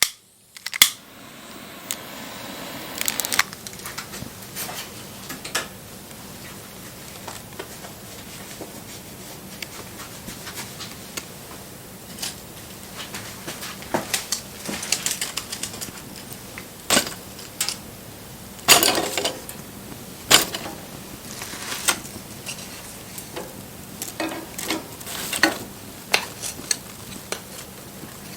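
Wood fire crackling: a steady hiss of burning wood with irregular sharp pops and snaps, two of the loudest a little past the middle.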